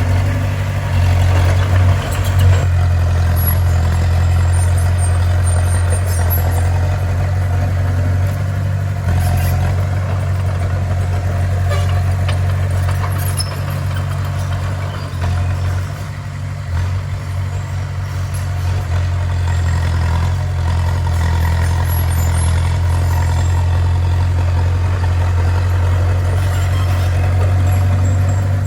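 Heavy diesel engine of a bulldozer running steadily, with a deep continuous hum that eases off a little for a few seconds midway.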